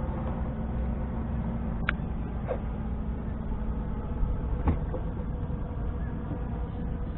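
Steady low rumble with a few light clicks or ticks, the sharpest about two seconds in.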